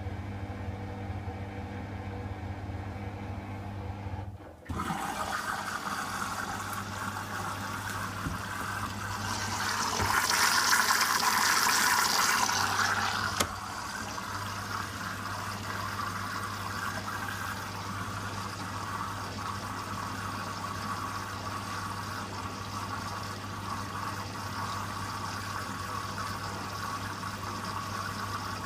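Hoover WDYN 11746 PG8 washer-dryer: a steady hum cuts off about four and a half seconds in, then water starts rushing into the drum. The rushing is loudest from about ten to thirteen seconds in, then runs on steadily as the machine fills with water for a rinse.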